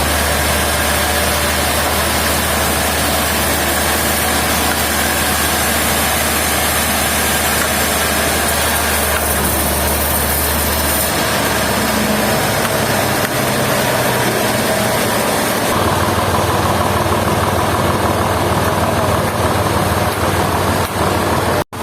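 Sawmill machinery's engine running steadily, with a deep hum whose note shifts about halfway through and again a few seconds later. The sound cuts out abruptly just before the end.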